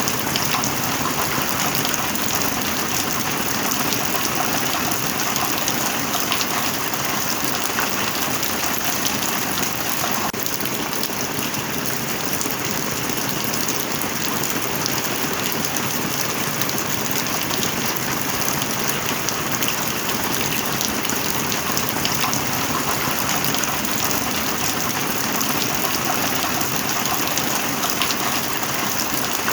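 Heavy rain falling steadily, a dense, even patter of drops with no change in strength.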